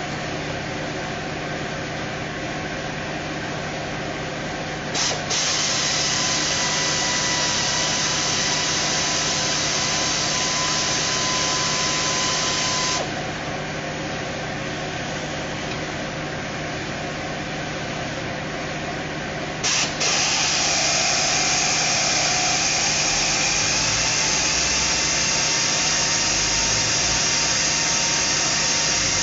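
A power tool running steadily in two long stretches, each starting with a click and a jump to a louder, hissing whine, over a constant mechanical hum in the workshop.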